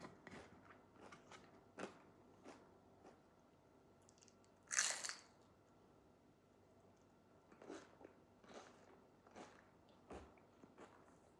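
A person eating, with faint, scattered chewing and mouth clicks, and one louder noise about five seconds in that lasts about half a second.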